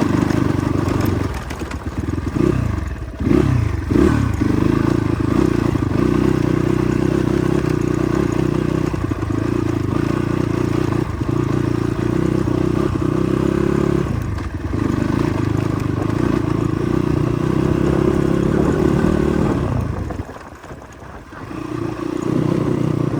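Motorcycle engine running on a rough ride, its revs swinging up and down several times a couple of seconds in. It then holds steady, eases off briefly around the middle and drops away near the end before picking up again.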